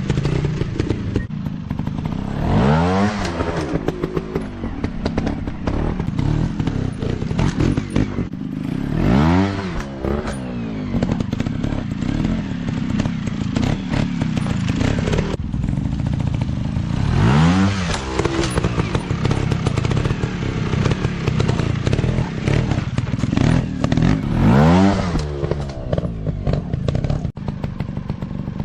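Dirt bike engines running, revved hard four times, each rev rising and falling in pitch, roughly every seven seconds.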